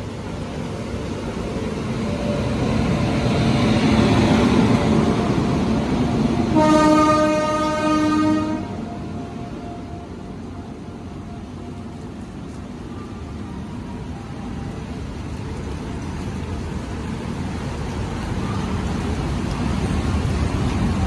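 WAG9 electric locomotive hauling a goods train of covered wagons passes close by, growing louder as it approaches, with its horn sounding for about two seconds roughly seven seconds in. After that comes the steady rumble of the wagons rolling past.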